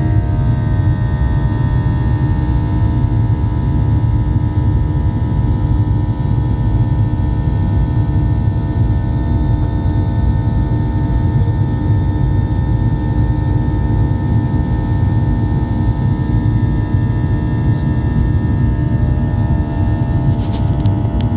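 Boeing 737-800's CFM56-7B turbofan engines heard from inside the passenger cabin: a loud, steady rumble with several held whining tones on top. A few faint clicks near the end.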